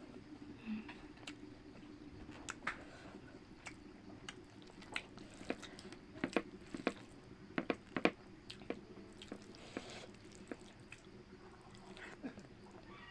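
A person chewing and biting food close to the microphone, with a run of sharp crunching clicks, loudest and most frequent about six to eight seconds in.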